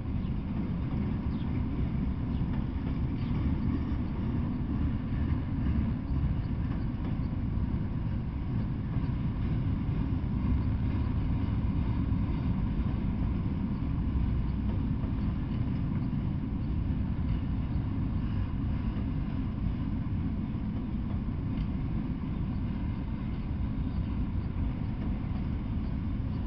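Freight train of enclosed autorack cars rolling past: a steady low rumble of steel wheels on the rails.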